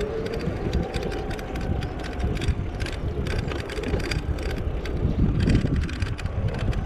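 Wind buffeting the microphone and low rumble from an e-bike ride, with many scattered clicks and rattles. A siren's wail carries over at the start and fades out within the first couple of seconds.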